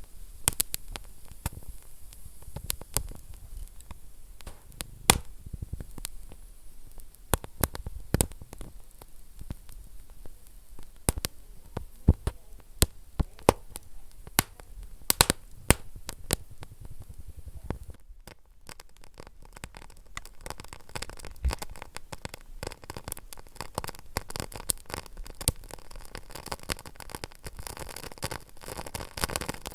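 Wood fire burning in a fireplace, crackling with irregular sharp pops. About two-thirds of the way through it briefly drops away, then comes back as denser, finer crackling with more hiss.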